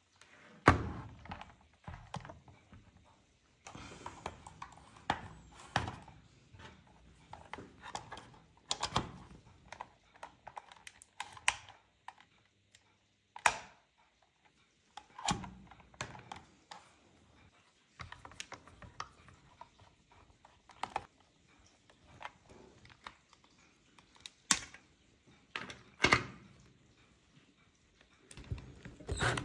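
Irregular clicks, taps and knocks from handling and working on an old electric hair dryer being taken apart for repair, with a few louder knocks among them.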